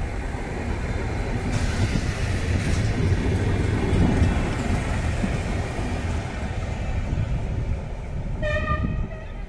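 Renfe series 470 electric multiple unit passing close by, with a steady rumble of wheels and running gear. Near the end there is a short horn blast of about half a second.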